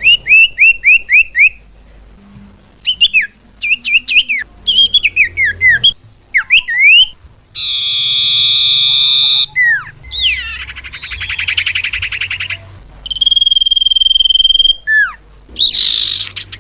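A bird-lure recording of loud bird calls that change abruptly from one type to the next: a quick run of downslurred whistles, a harsh buzzing call about eight seconds in, a rasping trill, then a long steady whistle and a few more slurred notes.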